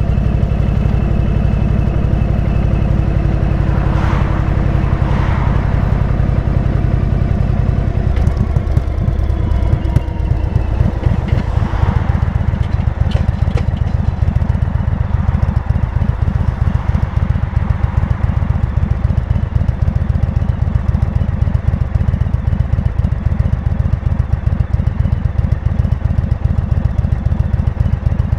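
Motorcycle engine running steadily under way. About a third of the way in the engine note changes to a deeper, pulsing beat.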